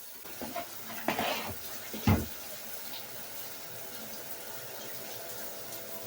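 Water running in a bathroom, with a short rushing splash about a second in and one loud thud a little after two seconds.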